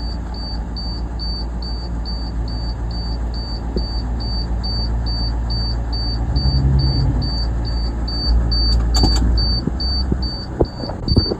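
Flatbed truck engine idling steadily, with a short high-pitched chirp repeating about three times a second: the unfamiliar noise the owner heard as soon as the truck started. A few brief knocks near the end.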